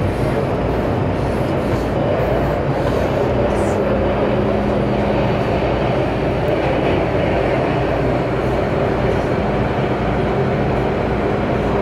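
MTR M-train electric metro train running through a tunnel: a steady, loud rail rumble with a low hum that comes and goes.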